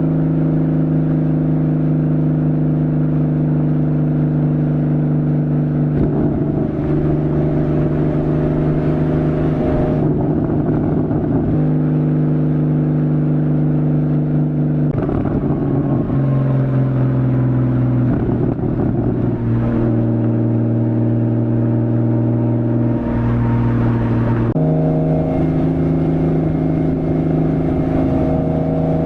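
Porsche Boxster 2.7-litre flat-six engine running through a Fabspeed Maxflo aftermarket exhaust under steady throttle, its note holding at one pitch for seconds at a time. The note steps lower twice around the middle and jumps back up near the end, typical of the PDK gearbox changing gear.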